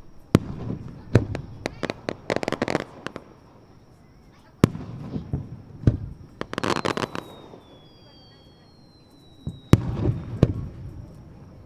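Aerial fireworks shells bursting some distance away: single sharp bangs, each followed by a low rumble, with two spells of rapid crackling, about two seconds in and again around six to seven seconds in.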